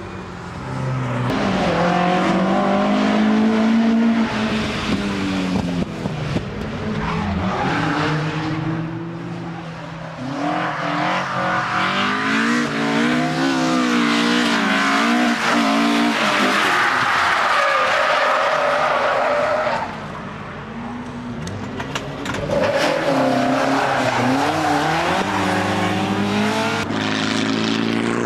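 Several race cars going past in turn, their engines revving up and down as the throttle is worked, with tyre squeal as they slide through the corner.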